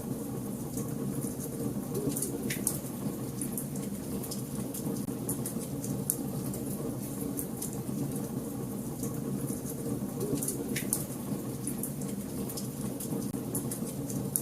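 Wood fire burning in a fireplace, crackling: a steady low rush of flames with frequent small sharp crackles, and two louder pops about two and a half seconds and eleven seconds in.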